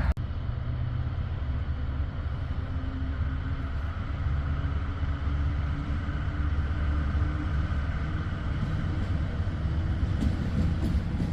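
Locomotive running with a steady low rumble and a held mechanical hum.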